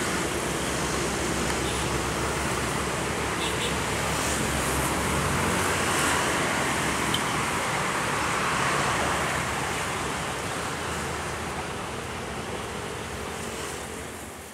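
Diesel-hauled commuter train running away from the listener: a steady low engine drone under a broad rolling hiss. It slowly fades over the last few seconds.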